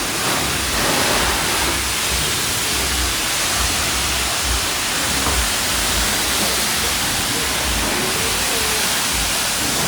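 Steady hiss of high-pressure water spraying from a self-serve car wash wand.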